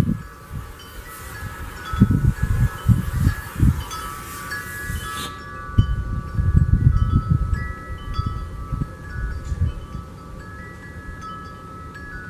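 Wind chimes ringing, several tones overlapping and starting at different moments, with irregular bursts of low rumble underneath.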